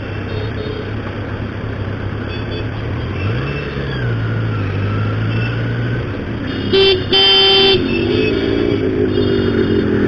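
Motorcycle engine running while riding in heavy traffic, rising and falling in pitch briefly about three seconds in. A vehicle horn sounds twice about seven seconds in, a short toot and then a longer one.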